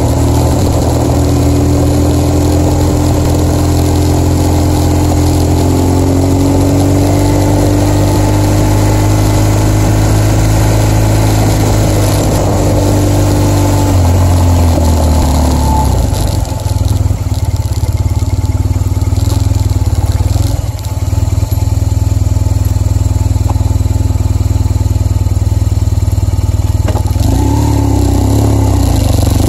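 BMW R1200GS boxer-twin engine running as the motorcycle rides along, over steady wind noise. The engine note rises slowly through the first half, drops about halfway through as the bike slows and runs at lower revs, and picks up again near the end.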